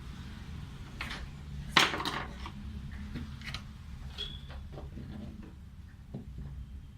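Tools or drill parts being handled on a workbench: a series of clicks and knocks over a steady low hum, the loudest a clatter about two seconds in.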